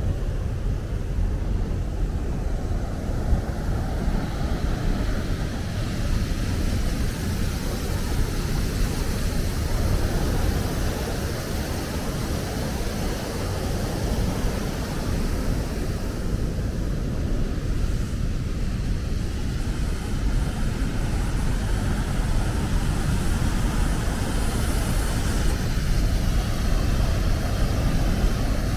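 Waterfall roaring: a steady, deep rush of falling water that holds level throughout.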